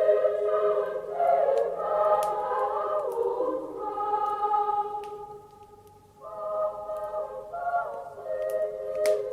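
A choir singing a Christmas song. The singing fades out about five seconds in and starts again about a second later, with a few sharp crackles of a wood fire.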